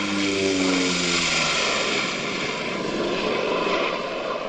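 Aircraft engine and propeller noise from a landing plane: a pitched engine tone that falls over the first second and a half, over a steady loud rushing noise.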